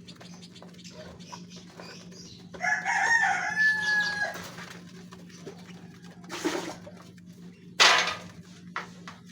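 Rooster crowing once, about two and a half seconds in: a call of nearly two seconds that ends on a held note. Later come two short bursts of noise, the second the loudest sound, over a steady low hum.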